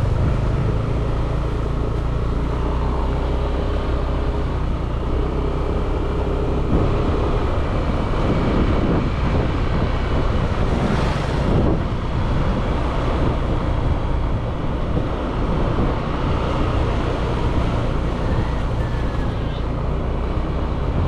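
Motorbike engine running while riding, under steady road and wind noise; the engine note changes about seven seconds in, and a brief swell of noise passes near the middle.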